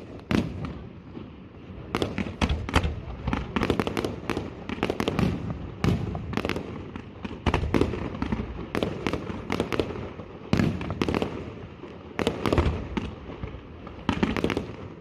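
Fireworks display: a rapid, continuous series of shell bursts, sharp bangs and crackling, many in quick succession.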